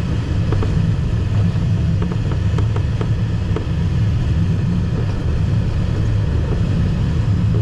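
Steady low rumble, like a vehicle in motion, with a few faint clicks.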